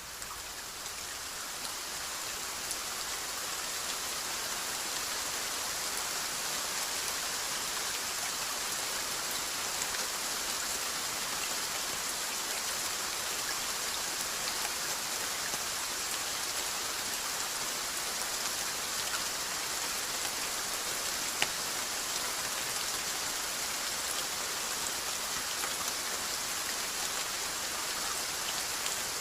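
Steady rainfall, an even dense hiss of many drops with faint individual drop ticks. It starts softer and swells back up over the first few seconds, and one sharper drop tick stands out about three quarters of the way through.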